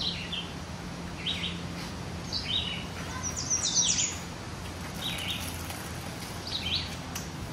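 Small birds chirping in short, repeated calls, with a quicker run of higher calls in the middle, over a steady low hum.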